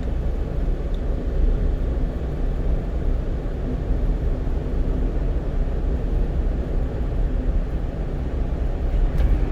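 Steady rumble of a one-ton truck cruising at highway speed, heard from inside the cab: engine and tyre noise with a faint steady hum.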